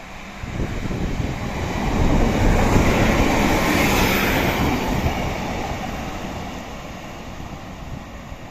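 Diesel train passing through, the rush of its wheels and engine swelling to a peak about three seconds in, then fading away as it moves off.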